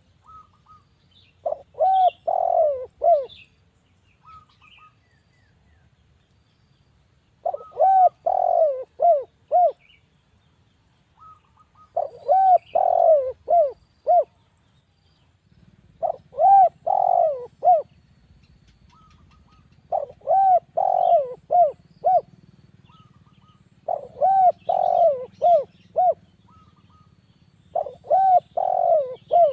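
Spotted dove (derkuku) cooing: seven phrases about four seconds apart, each a quick run of four or five arching coo notes. Faint chirps of small birds sound behind it.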